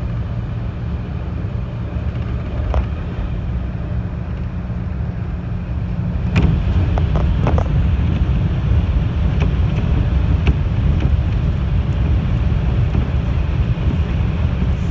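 Interior running noise of a 211 series electric train: a steady low rumble of wheels on track. It grows louder about six seconds in as the train enters a tunnel, with a few sharp clicks after that.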